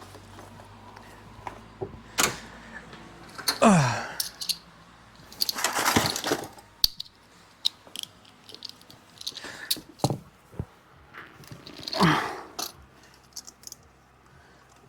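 Metal tool handling: clinks, rattles and short scrapes as a filter wrench is fitted to a tractor's filter, with two brief sounds that fall in pitch, one a few seconds in and one near the end.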